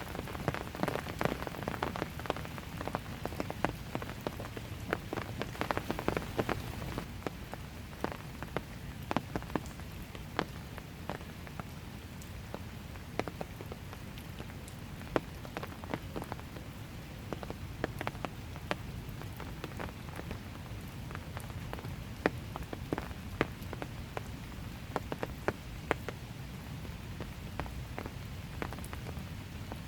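Steady light rain falling on hard surfaces, with many individual drops ticking sharply and irregularly over a soft continuous hiss; the drops are thicker for the first several seconds.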